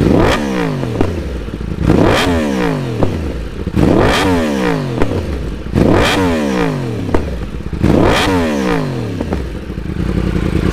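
Yamaha R1's crossplane inline-four, on a Hindle carbon-fibre full-system race exhaust, blipped five times about every two seconds: each rev shoots up sharply and falls back slowly, with a sharp crack as some of the revs fall away. Near the end it settles back to a steady idle.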